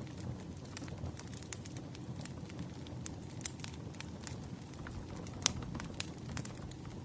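Campfire crackling: a low steady rush of flames with irregular sharp pops and snaps, the two loudest pops about five and a half and six seconds in.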